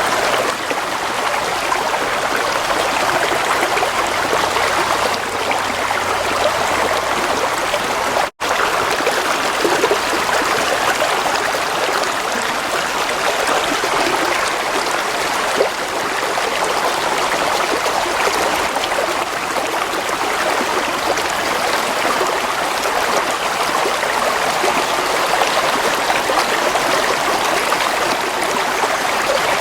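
Water flowing steadily in a stream, an even rushing and trickling, with a momentary break in the sound about eight seconds in.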